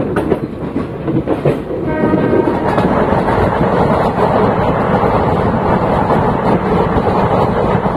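Passenger train running on the track, a loud steady rumble of wheels on rails, with a brief horn about two seconds in.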